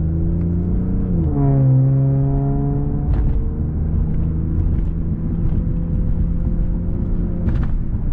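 Infiniti Q50's twin-turbo V6 heard from inside the cabin while driving, exhausting through resonated aftermarket lower downpipes. About a second in, its pitch drops sharply, as at a gear change. It then settles into a steady, even drone at cruise.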